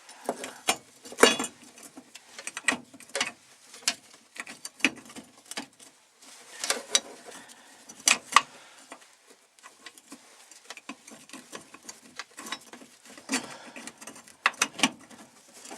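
Metal plate being worked into place over a fuel pump assembly in the tank: irregular clicks, taps and light knocks of metal parts being handled and pushed, with the loudest knocks about a second in and around eight seconds in.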